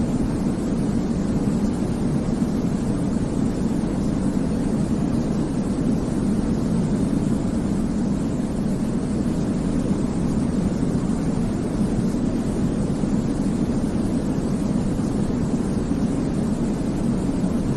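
Steady white noise for baby sleep, a deep, even rushing hiss weighted toward the low end, with no change and no other sound.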